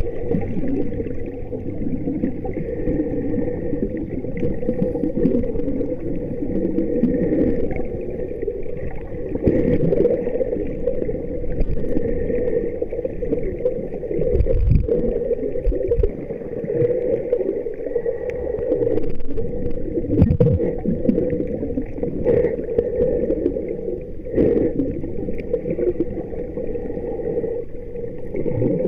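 Muffled sloshing and gurgling of water, steady throughout, with occasional brief knocks and swells.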